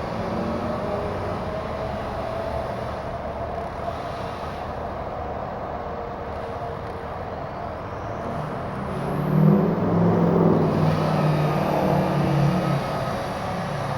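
Steady outdoor engine drone, with a motor vehicle growing louder and passing between about nine and thirteen seconds in.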